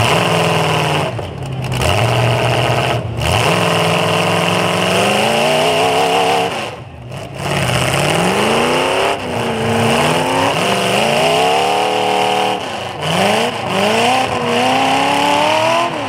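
Demolition derby car engines revving hard, their pitch repeatedly climbing and dropping back as the cars push and pull against each other in the mud.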